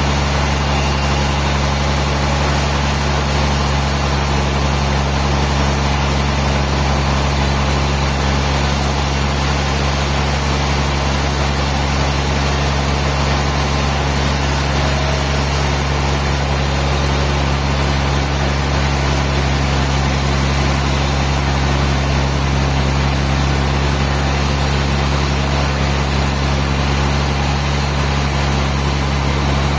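A large engine running steadily at constant speed, an even low hum that doesn't change.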